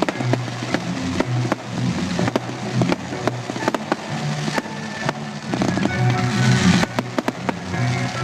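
Fireworks going off in quick succession, sharp bangs and a dense crackle about two thirds of the way in, over music playing.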